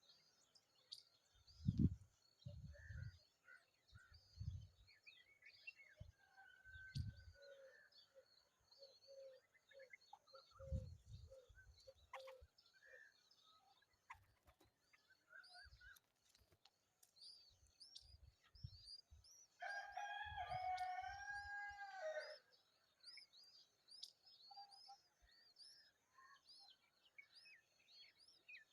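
Birds chirping with many short, high chirps, and one louder, longer drawn-out call about two-thirds of the way through. Several low thumps come and go underneath.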